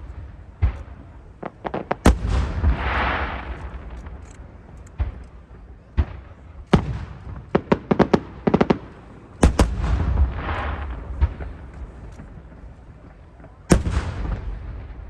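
Aerial firework shells bursting in sharp bangs with a low rumble, including a quick run of bangs about eight seconds in. After the bursts at about two and nine seconds in comes a spreading crackle of sparkling effects.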